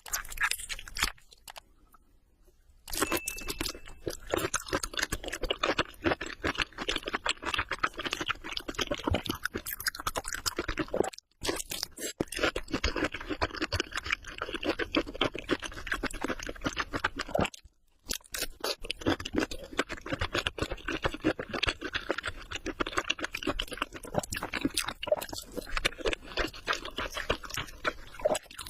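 Close-up crunching and chewing of crispy fried prawns: a dense run of crisp crunches, broken by a few short abrupt gaps.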